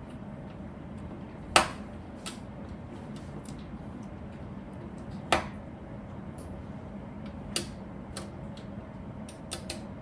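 Plastic Lego pieces clicking as they are handled and snapped together: scattered sharp clicks, a louder one about a second and a half in and another past the middle, over a steady low hum.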